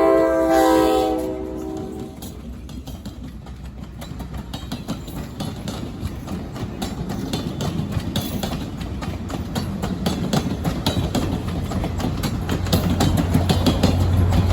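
Diesel passenger train: the horn's chord of several notes ends about a second in, then the train rolls by with wheels clicking over the rail joints over a steady rumble. A low engine drone grows louder near the end.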